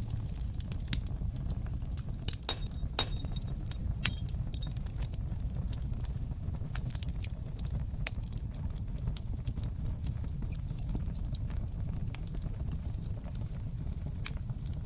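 Wood fire crackling in a fireplace: a steady low rumble of flames with scattered sharp pops and snaps. There is a flurry of pops a couple of seconds in, and the loudest single pop comes about four seconds in.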